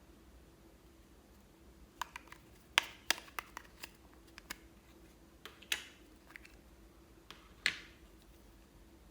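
Glossy slime being worked by hand, giving sharp, irregular clicks and pops, about a dozen, starting about two seconds in.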